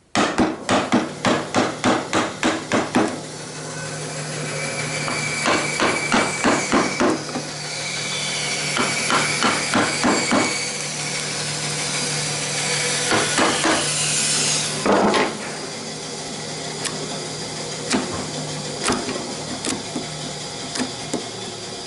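Mallet striking a wood chisel to chop out a mortise: a run of about ten quick blows, then several shorter runs of four or five blows a few seconds apart. A steady low hum runs beneath the blows and stops about fifteen seconds in.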